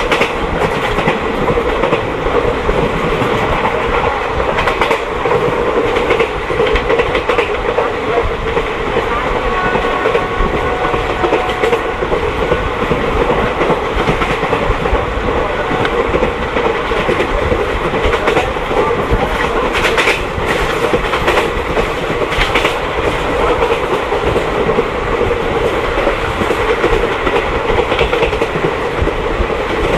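Passenger train running at speed, heard from on board: a steady loud rumble with the wheels clattering over the rail joints, and a few sharper clacks about twenty seconds in.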